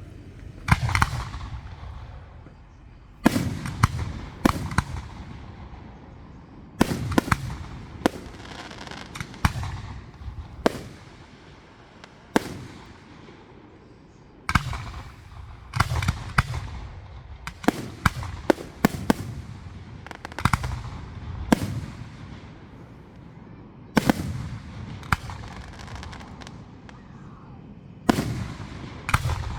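Fireworks display: aerial shells bursting in bangs, single and in quick clusters, each followed by a booming echo and a crackling tail.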